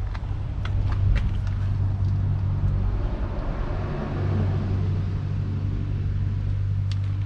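Claas Arion 660 tractor's 6.8-litre six-cylinder diesel engine running steadily with a deep, even hum, with a few light clicks about a second in and near the end.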